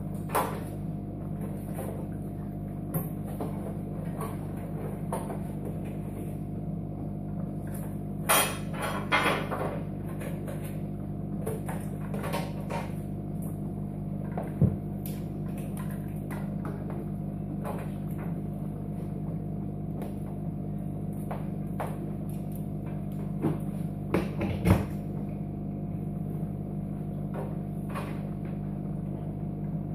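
Steady electrical hum, with a few sharp clicks and knocks scattered through it.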